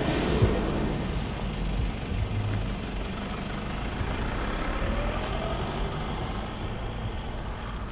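Engine of a large vehicle running steadily, its sound slowly fading away.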